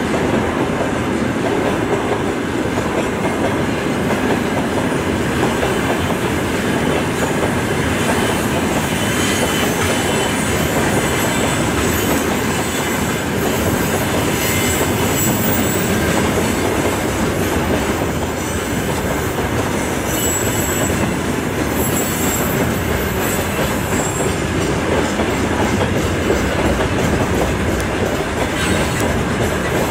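A freight train's wagons (tank cars and open wagons) rolling past, their wheels rumbling steadily over the rails, with brief high wheel squeals now and then.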